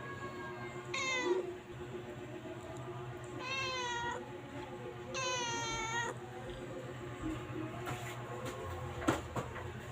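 Domestic cat meowing three times: a short falling meow, then two longer drawn-out meows with a wavering pitch. A sharp click near the end.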